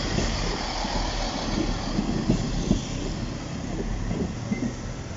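Class 158 diesel multiple unit passing close by, its wheels clattering over the track in a run of knocks, fading near the end as it moves away.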